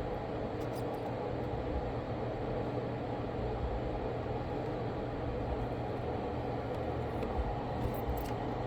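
Steady mechanical hum, like a small fan running, with a few faint ticks.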